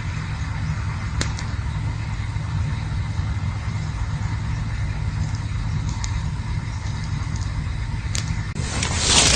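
Campfire burning with a steady low rumble and a few faint crackles and pops; near the end a louder rushing hiss rises.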